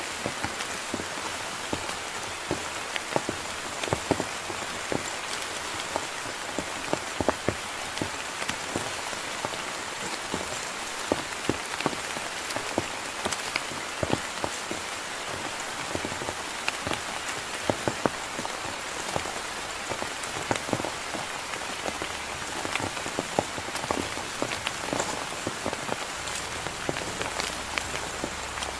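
Heavy rain falling steadily, with many sharp, irregular drop strikes on a close surface over the even hiss of the downpour.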